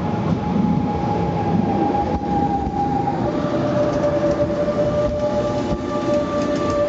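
FGC class 213 electric multiple unit pulling into the station and running close past: a rumble of wheels on rail with a steady electric whine, whose pitch drops about three seconds in.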